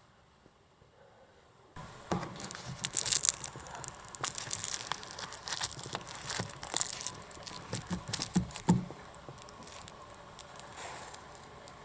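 Crinkling and rustling with many small crackling clicks, as of something being handled, starting suddenly about two seconds in and dying down near the end.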